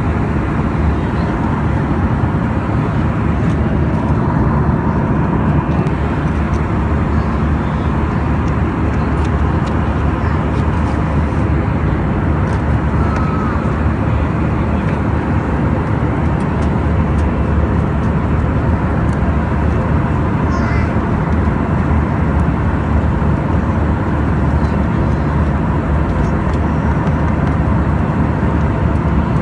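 Steady airliner cabin noise: a constant low rumble of engines and airflow, with a few faint steady tones.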